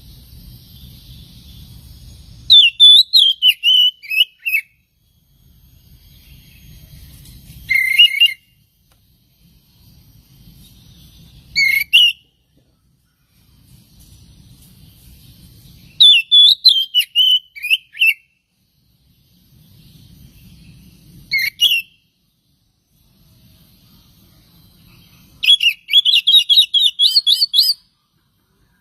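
Oriental magpie-robin (kacer) singing in about six short, loud bursts of whistled phrases several seconds apart. Most phrases fall in pitch, and the last is a quick run of notes rising in pitch. A faint low rumble fills most of the pauses between the phrases.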